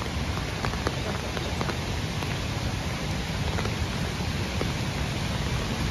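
Steady rain falling in woodland, with scattered drops ticking close by, over the low rush of a rain-swollen creek.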